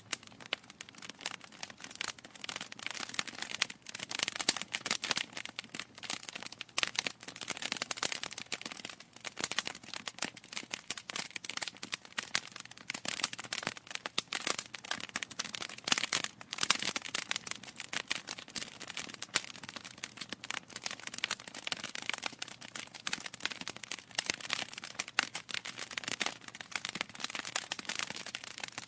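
Wood fire crackling in a fireplace: a continuous stream of irregular snaps and pops from burning logs.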